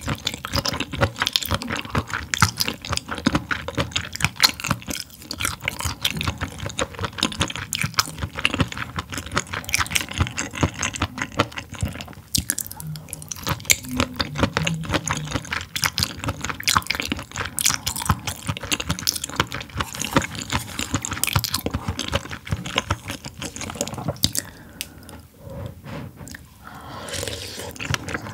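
Close-miked wet chewing of sea anemone: a dense, irregular run of many small wet mouth clicks, easing off briefly near the end.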